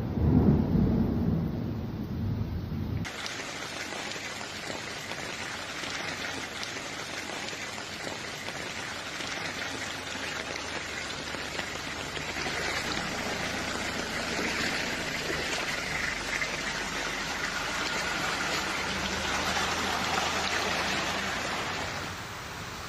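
Heavy rain pouring down, a steady hiss. In the first few seconds there is a loud low rumble, which cuts off suddenly about three seconds in.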